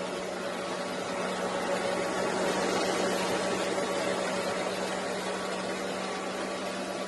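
Miele S8 canister vacuum cleaner running steadily: an even rush of air over a constant motor hum.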